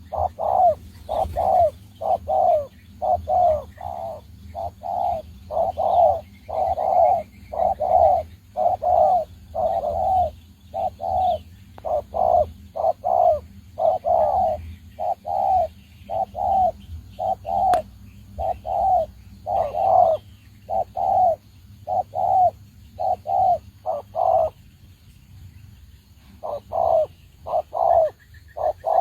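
Spotted dove cooing over and over, a long series of short coos about two a second, breaking off for about two seconds near the end before starting again. Faint chirps of a smaller bird come in once or twice.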